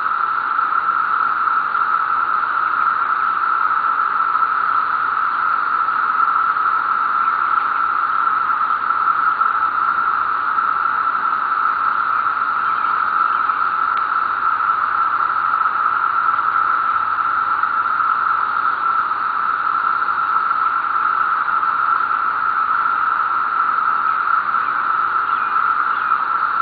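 Dense chorus of 17-year periodical cicadas: a loud, steady, high drone that holds without let-up.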